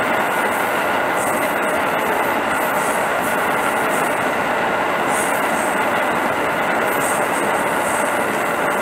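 Train of freight flat wagons rolling past: a steady noise of wheels on rail with thin, steady high tones running through it.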